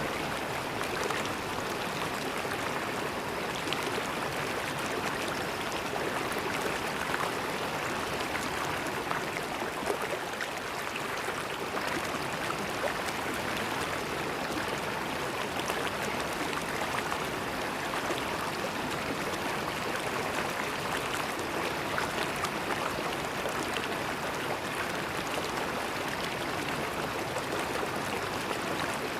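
River water flowing and gurgling steadily over stones, an even rushing with fine splashes throughout.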